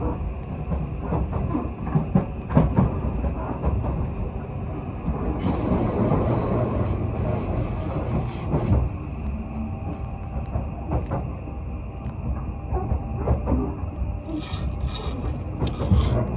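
Odakyu Romancecar express train running, heard from inside the carriage: a steady low rumble of wheels on rail with scattered clicks, and a stretch of high wheel squeal from about five to nine seconds in.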